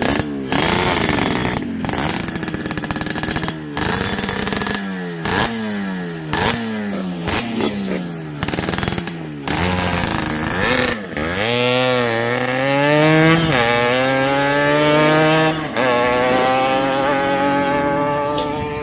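Yamaha RX-King's single-cylinder two-stroke engine revved through a gutted muffler with two baffles removed, giving a crisp, dry exhaust note. For about ten seconds it takes a string of quick throttle blips that drop off sharply. After that come longer revs held higher, climbing in pitch toward the end.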